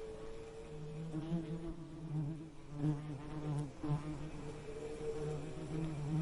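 Bee buzzing: a low, steady buzz that wavers slightly in pitch and swells louder now and then.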